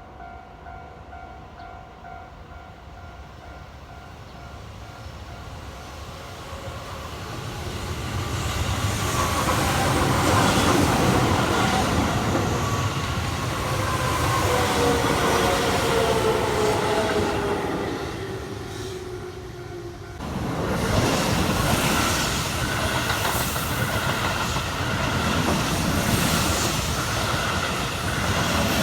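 Keihan electric trains passing on the line. A rising rumble brings a motor whine that falls steadily in pitch as a train goes by. About two-thirds of the way through there is a sudden jump to louder wheel noise and rail-joint clatter as another train passes.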